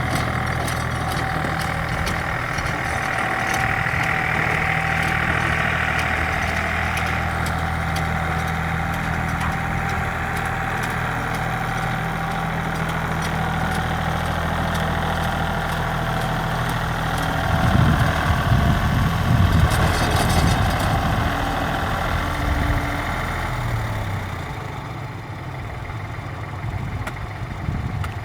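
Hinomoto N279 tractor engine running steadily. About two-thirds of the way through it gets louder and uneven for a few seconds, then it runs quieter near the end.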